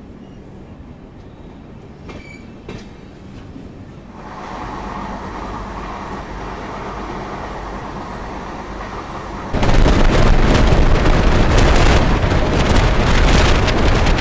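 Pushpak Express passenger coaches rolling on the track, first faint and steady as the train gets under way, growing louder about four seconds in. About nine and a half seconds in the sound jumps suddenly to a loud rush of wind and wheel-on-rail noise, as heard from an open coach door with the train at speed.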